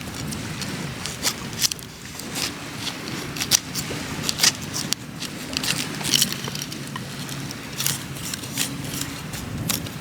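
Fire in a campfire pit crackling, with irregular sharp pops over a low, steady background noise.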